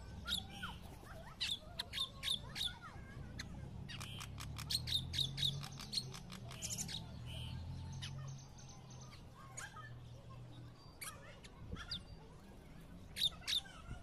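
Small birds calling in short, sharp chirps and chattering notes, in clusters throughout, with a fast run of notes in the middle.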